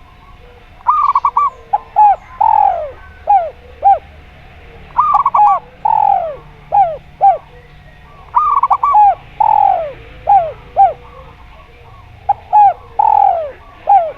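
Zebra dove (perkutut) singing its cooing song, repeated four times. Each phrase opens with a quick fluttering note, falls into a long sliding coo, and ends in a few short clipped coos.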